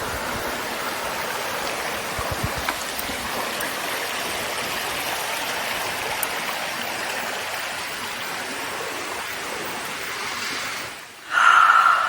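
A rainforest creek running steadily with a continuous rushing. Near the end it drops away briefly, then comes back louder.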